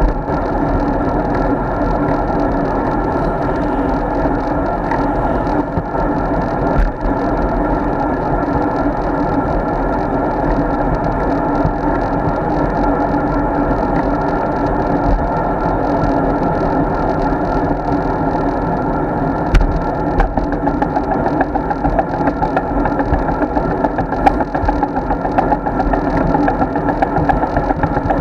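Steady wind and road noise picked up by an action camera riding on a moving road bike, with a few sharp knocks in the second half.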